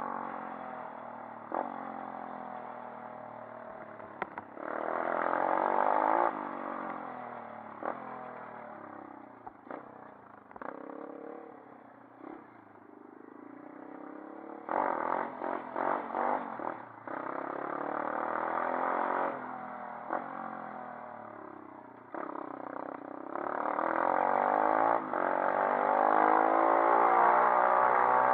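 140cc pit bike's single-cylinder four-stroke engine being ridden, revving up and easing off again and again, with loud surges about five seconds in, in the middle and over the last few seconds; a few sharp clicks and rattles in between.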